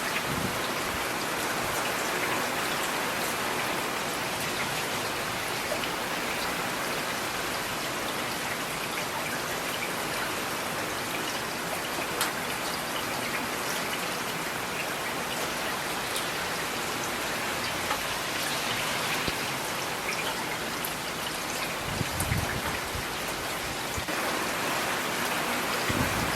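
Steady rain falling, with individual raindrops ticking on a hard surface. A brief low thump comes about 22 seconds in.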